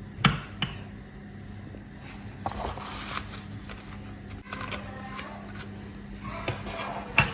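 A serving spoon knocks and scrapes against a pot and plate as stew and rice are dished up: a couple of sharp clicks at the start, short scrapes through the middle and one more knock near the end, over a steady low hum.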